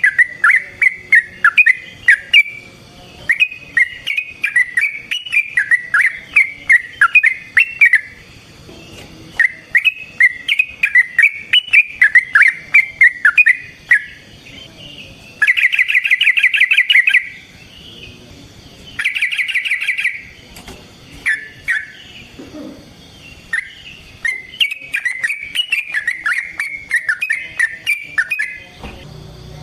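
Sooty-headed bulbul (trucukan) singing: bursts of loud, bubbly chattering phrases, broken about halfway through and again a few seconds later by two short, very rapid trills.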